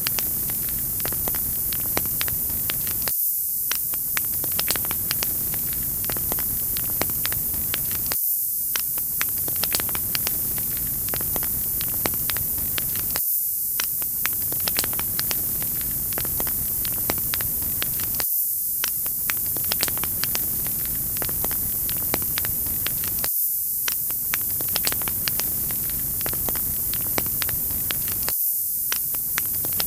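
Wood fire crackling: many small sharp pops and snaps over a steady high hiss. The same stretch of sound repeats about every five seconds.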